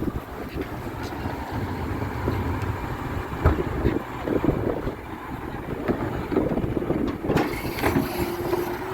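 Garbage truck running, a steady low rumble with scattered knocks and clanks. A hiss comes in about seven seconds in.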